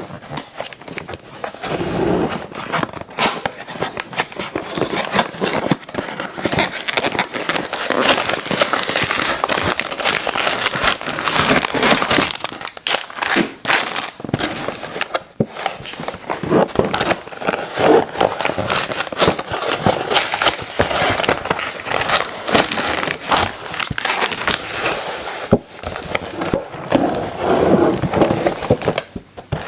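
Close-miked chewing of crunchy cookies and candy: a dense, continuous crackling and crunching of mouth sounds.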